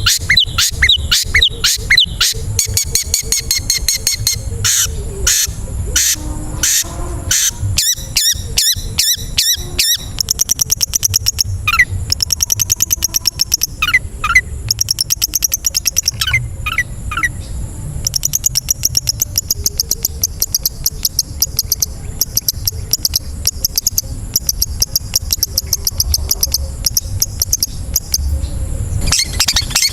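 Long-tailed shrike song: a fast, unbroken run of high chattering trills, sharp repeated notes and short whistled sweeps.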